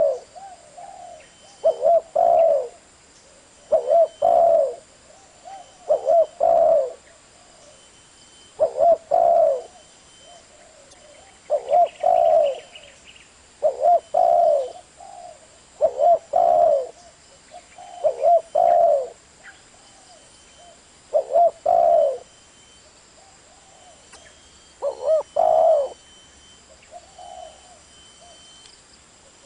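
Spotted dove cooing: a short phrase of a few low coos, repeated about every two seconds.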